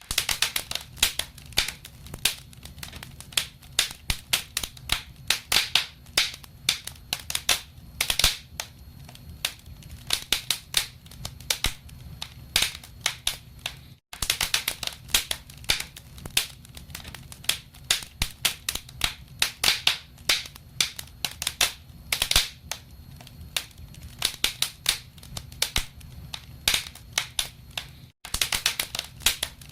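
Wood fire in a fireplace crackling and popping: many sharp, irregular snaps over a low steady rumble of burning. The sound cuts out for an instant twice.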